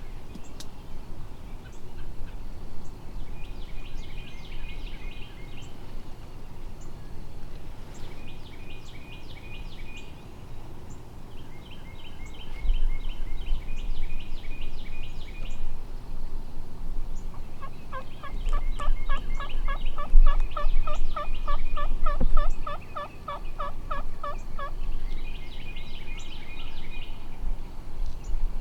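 Turkey yelping: several runs of quick notes, with a longer, louder and lower run of yelps about two-thirds of the way through.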